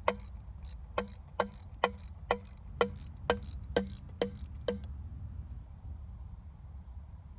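Socket ratchet wrench clicking as it works a bolt on the engine, about two clicks a second for roughly five seconds, then stopping.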